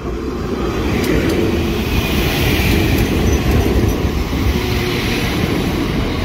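Northern Ireland Railways Class 4000 diesel multiple unit passing close by over a level crossing: a loud, steady rumble of engine and wheels, with a couple of sharp clicks from the wheels about a second in.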